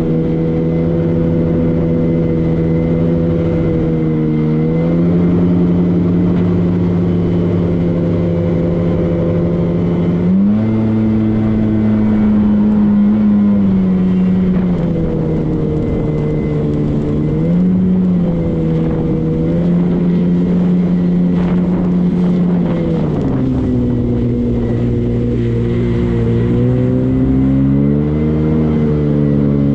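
Motorboat engine running steadily under way, its pitch rising and falling as the throttle changes: up about ten seconds in, easing back a few seconds later, dropping lower past the twenty-second mark and climbing again near the end.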